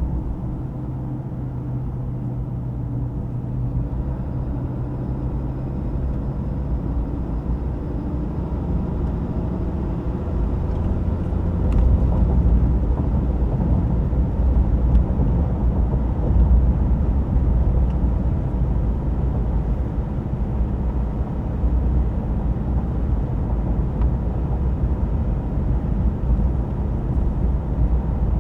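2025 Ram 2500 Rebel's high-output Cummins 6.7-litre inline-six diesel running on the move, with road noise. The engine tone is steady at first, and about twelve seconds in it gives way to a louder, deeper rumble that keeps going.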